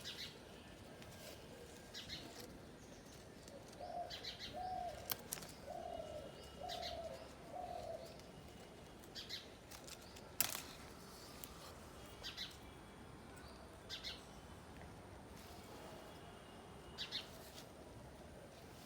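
Small birds chirping in short, scattered high calls, with a run of five low, evenly spaced notes about four seconds in. A sharp click about ten seconds in is the loudest moment.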